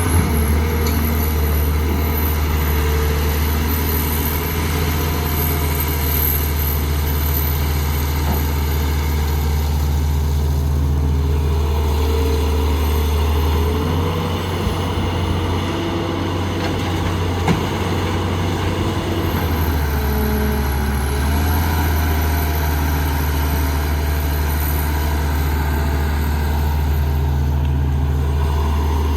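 Heavy diesel engine of construction machinery running steadily with a deep hum. Its note changes about halfway through and again a few seconds later, as the load on the engine shifts.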